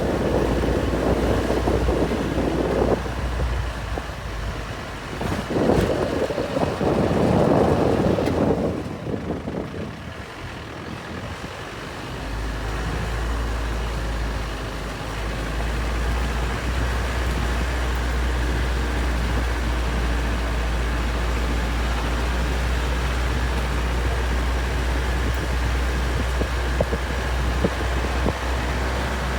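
Road noise of a truck being driven: a steady low engine and road rumble, with two louder rushing stretches in the first eight seconds. The low rumble drops away for a couple of seconds around ten seconds in, then returns steady.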